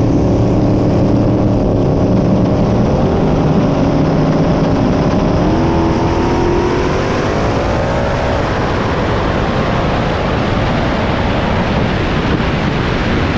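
Twin-turbo 5.3 L LS V8 in a drag-racing Camaro at full throttle on a pass. Its pitch climbs, levels off, climbs again about five and a half seconds in, then blends into a loud, steady rush.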